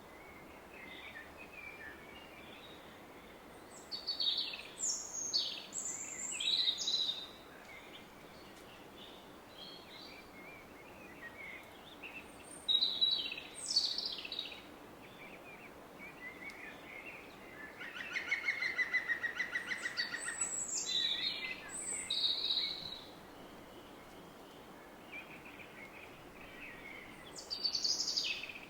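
Woodland songbirds singing in separate phrases, a few seconds apart, with one rapid trill about two-thirds of the way through, over the steady rush of a distant river.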